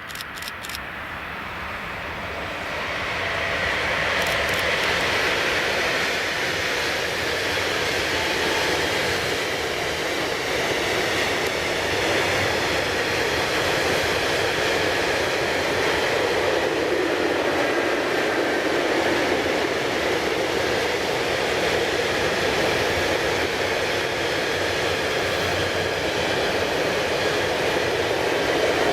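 Freight train of tank wagons rolling past on the main line, a steady rolling rumble of wheels on rails. It builds over the first few seconds, then holds.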